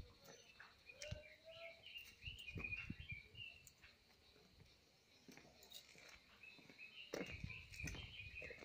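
Faint birds chirping in two spells, one early and one near the end, over very quiet ambience with a few low thumps.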